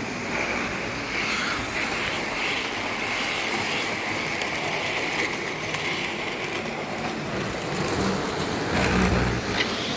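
Model railway trains running on the layout's track: a steady electric motor whine over wheel rumble, with a brief low thump about nine seconds in.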